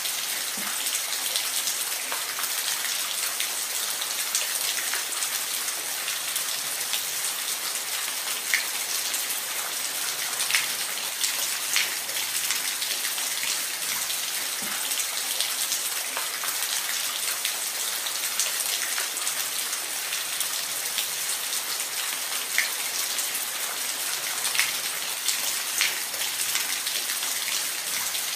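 Steady rain falling, a continuous hiss with scattered sharper drips and drop hits on a surface.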